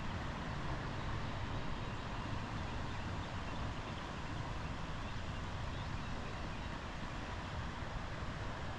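Steady rush of a rain-swollen creek's flowing floodwater.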